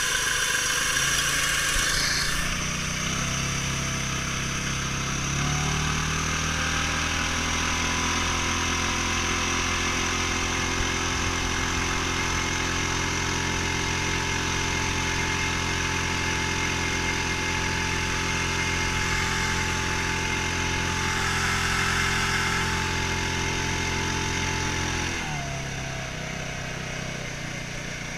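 8 hp surface-drive mud motor running on a PVC boat: it speeds up about five seconds in, holds a steady high pitch while the boat runs, then is throttled back about 25 seconds in with a falling pitch.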